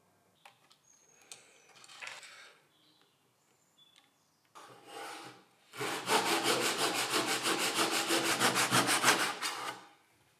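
Hand saw cutting wood in a miter box: a few light handling sounds, then about four seconds of rapid, even back-and-forth strokes that stop near the end.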